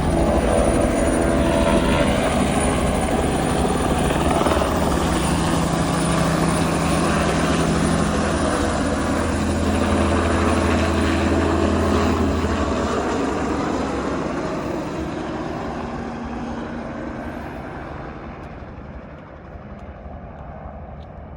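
Two turbine helicopters, a Bell 505 and an AS350B2 Astar, with steady rotor and turbine noise, loud at first, then fading over the last several seconds as they climb away.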